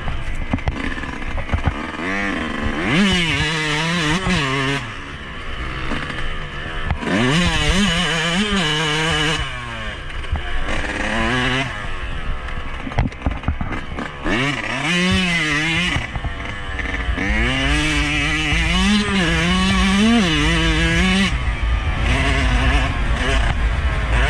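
Yamaha YZ125 two-stroke single-cylinder dirt-bike engine being ridden hard. Its pitch climbs and drops in several surges of throttle and gear changes, over a steady low rumble.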